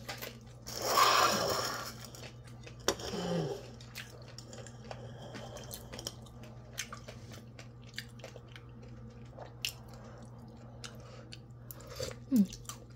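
A person chewing and eating at close range: a run of short mouth clicks and smacks, with a longer rush of noise about a second in and a smaller one near three seconds. A steady low hum runs underneath.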